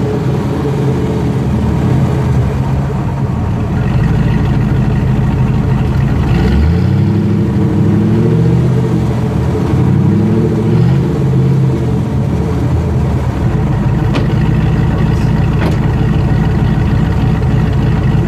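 Dodge 5.2 Magnum V8 in a Jeep TJ running through a Flowmaster HP2 Shorty muffler, idling with a few throttle blips, pitch rising and falling, from about six to eleven seconds in, then settling back to a steady idle.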